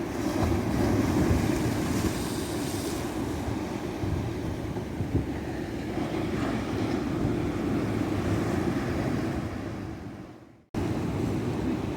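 Ocean surf washing onto a beach: a steady, deep rumble of waves with wind buffeting the microphone. Near the end it fades out to a moment of silence, then cuts back in abruptly at an edit.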